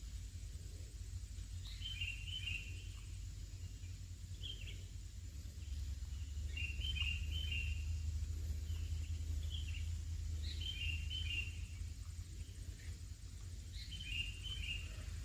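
A bird calling in short chirping phrases repeated every few seconds: a quick high note followed by a rapid run of chirps. A steady low rumble runs beneath the calls.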